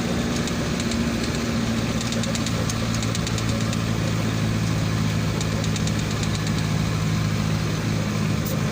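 Truck engine running steadily at an even low pitch on a steep mountain climb, with faint light rattling over it.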